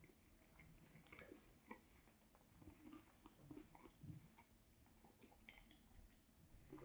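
Faint chewing of a chicken and cheese sub sandwich, with scattered soft mouth clicks and small wet bites at an uneven pace.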